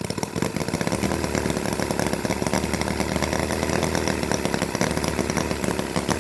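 Holt H75 four-cylinder two-stroke model engine running steadily just after starting, a fast, even buzzing rattle of rapid firing.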